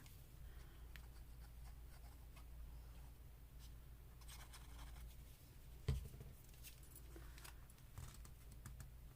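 Faint paper handling and light scraping of paper on paper as pieces are glued down, with one soft knock about six seconds in, over a low steady room hum.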